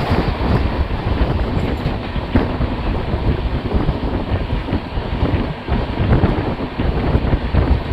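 Running noise of a passenger train heard from on board: a steady rumble of wheels on the rails with irregular clicks, and wind buffeting the microphone.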